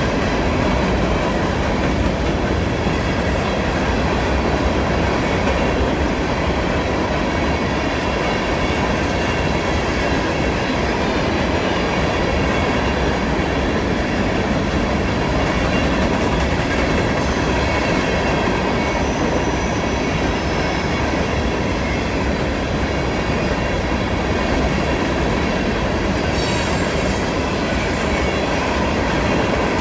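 Freight cars of a CN train rolling steadily past on a curve. The wheels make a constant rumble and clatter, with a faint thin squeal of wheel flanges against the curved rail.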